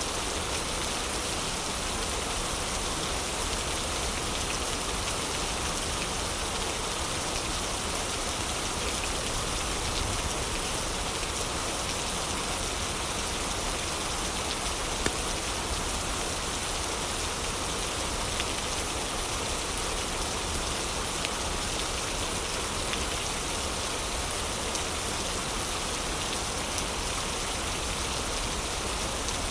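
Heavy rain falling steadily, with a few scattered crackles and pops from a wood fire in a fireplace, one sharper pop about halfway through.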